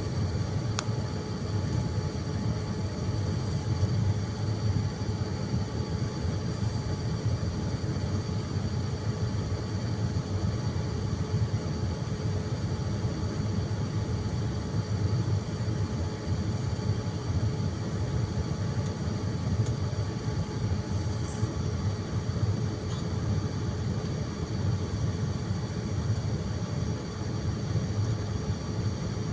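Steady rumble of a jet airliner's cabin noise, with a faint steady hum of engine tones over it.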